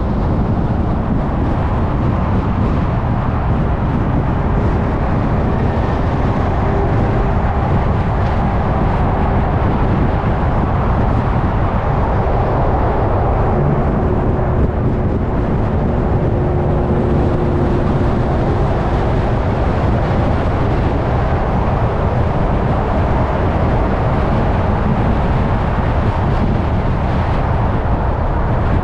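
Steady road and tyre noise of a car driving at freeway speed, a dense rushing sound with faint tones coming and going twice.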